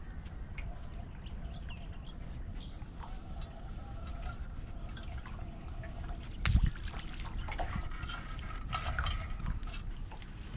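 Water trickling and dripping over a steady low rumble, with small clicks and one loud knock about six and a half seconds in.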